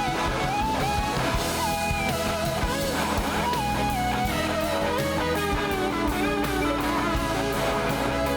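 A live rock/soul band playing a slow song: an electric guitar lead with notes that glide up and down, over steady bass and band backing.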